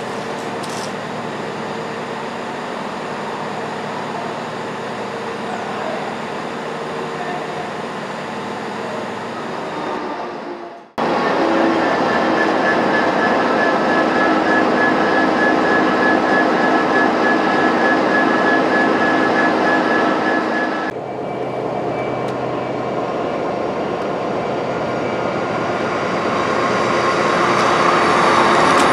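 British Rail Class 66 diesel locomotive, an EMD two-stroke V12, running steadily. After a sudden cut about a third of the way in, another Class 66 passes close and loud, with a steady high whine over the engine. After another sudden cut about two-thirds in, a GWR High Speed Train passes, growing louder toward the end.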